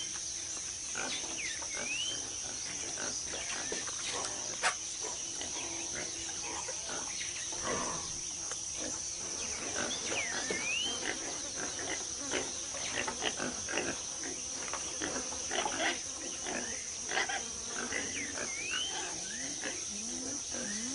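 Rainforest ambience: a steady high insect drone, a bird's rising whistle repeated every few seconds, and many short animal calls and grunts scattered throughout.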